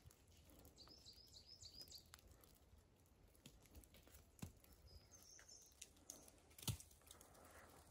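Quiet forest with a small songbird calling: a quick run of about five high chirps about a second in, and one more brief high call a few seconds later. A few faint taps, the loudest near the end.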